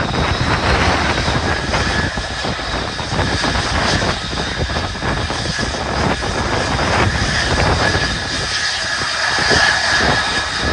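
Dutch F-35A's single Pratt & Whitney F135 jet engine in afterburner, a loud, continuous jet noise with a crackling edge and a steady high whine.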